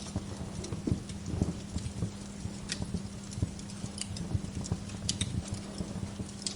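Wood fire crackling, with irregular sharp pops, a few of them louder than the rest, over soft low knocks and a steady low hum.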